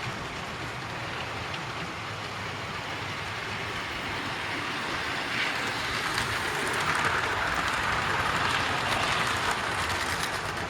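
Model train running on the layout's track: a steady whirring rumble of wheels and motor that swells as it comes near in the second half and eases a little near the end.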